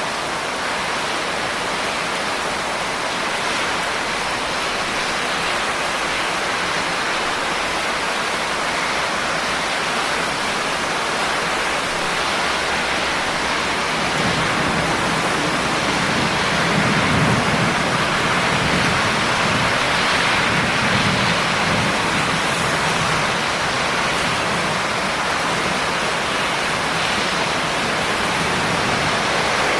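Steady heavy rain hissing. About halfway through, a low rumble swells for several seconds and then fades.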